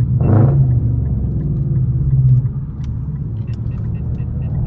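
Straight-piped Infiniti M56's 5.6-litre V8 exhaust rumbling at low revs, with a brief louder bark a fraction of a second in. It drops quieter about two and a half seconds in.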